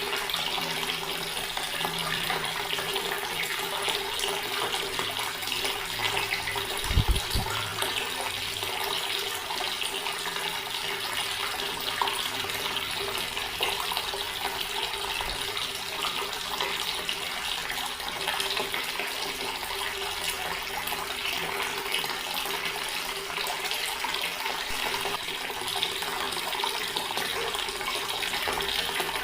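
Water running steadily from a tap into a stone basin, a continuous splashing stream with a faint steady low tone underneath. A single brief low thump comes about seven seconds in.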